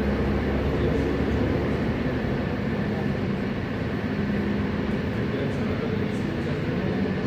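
Helicopter engine and rotor noise, a steady loud drone with a low hum that eases off slightly.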